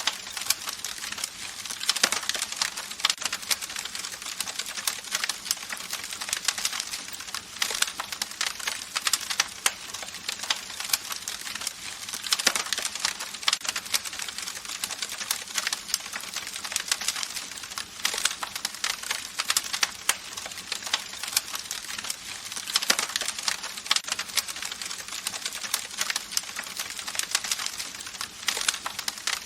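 Campfire crackling steadily: a dense run of small pops and snaps over a soft hiss of burning wood, with a few louder pops along the way.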